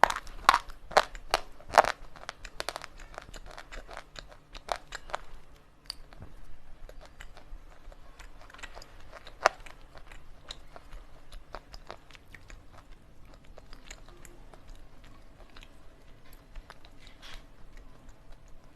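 Slate pencil pieces being bitten and crunched in the mouth close to the microphone: a rapid run of loud, sharp crunches for the first two seconds, then quieter, steady chewing with smaller crackles.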